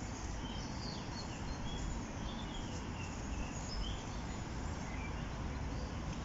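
Small birds chirping in short, scattered notes over a steady rushing background noise.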